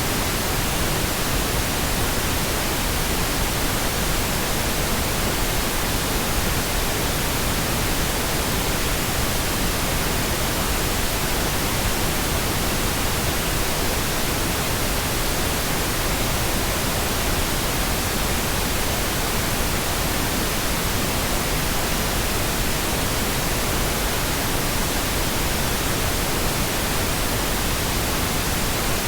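Steady synthetic pink noise: an even, unchanging hiss spread across the whole range of pitch.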